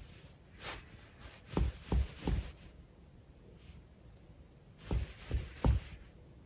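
Soft, dull thumps: three in quick succession about a second and a half in, and three more about five seconds in.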